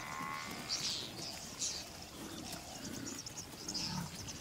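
Short, high bird chirps about once a second over faint open-air ambience, with a falling call at the very start and a few soft low sounds underneath.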